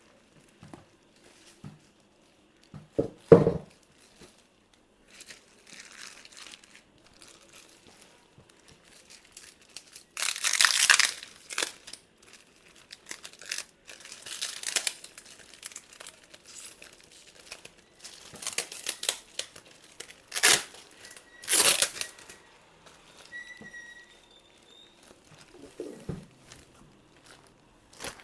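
Packaging being unwrapped by hand: irregular crinkling and tearing of plastic and foam wrap in bursts, with a sharp knock about three seconds in.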